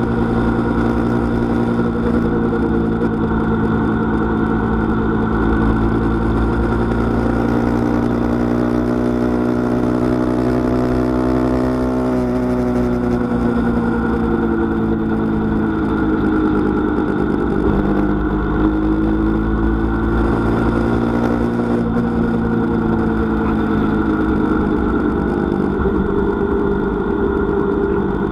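Car engine and road noise heard inside the cabin while driving. The engine note climbs slowly, drops about twelve seconds in, then rises again.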